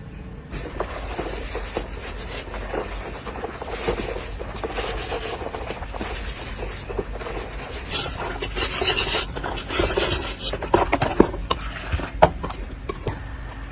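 Steady hand rasping: repeated rubbing, filing or scrubbing strokes on a hard surface, with a few sharp clicks near the end.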